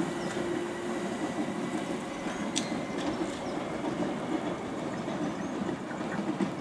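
London Underground Jubilee line 1996 stock train pulling away, its wheels running over the rails. A steady hum fades about a second in, and there is one sharp click near the middle.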